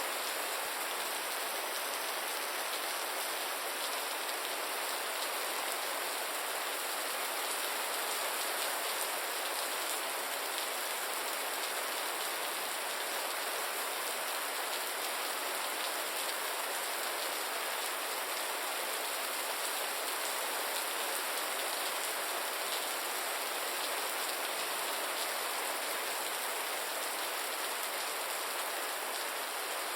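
Gentle rain falling steadily, an even hiss of many fine drops with little low end.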